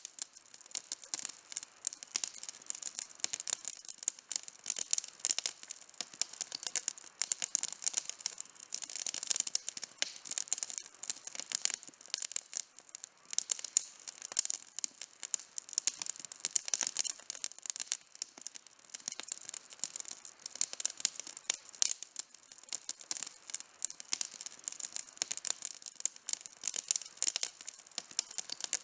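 Campfire burning with dense, continuous crackling: many sharp pops and snaps of burning wood, with no low rumble underneath.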